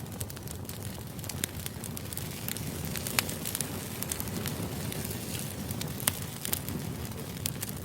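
Crackling fire ambience: a steady low rumble with many irregular sharp crackles and pops.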